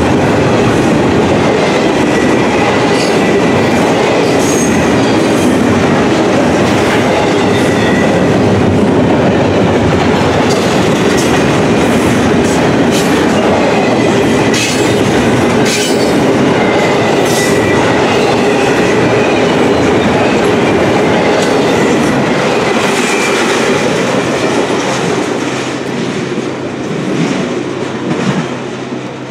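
Double-stack intermodal container cars rolling past, their steel wheels clacking over the rail joints in a steady run of clicks. The sound fades over the last few seconds as the end of the train passes and moves away.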